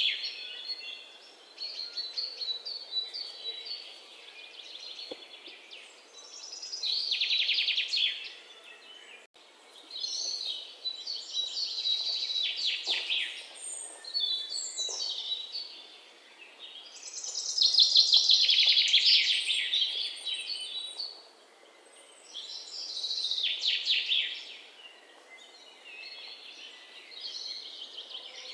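Birds chirping in repeated bursts of rapid, trilled high notes, a phrase every few seconds, over a faint background hiss.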